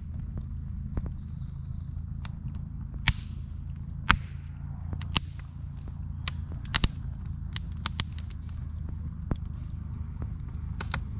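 Firecrackers going off: a dozen or so sharp pops and cracks at irregular intervals, some in quick pairs, over a steady low hum.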